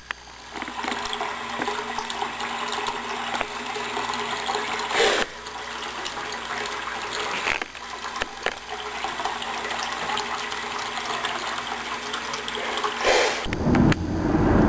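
Fountain water splashing and pouring steadily. About a second before the end, a low rumble comes in.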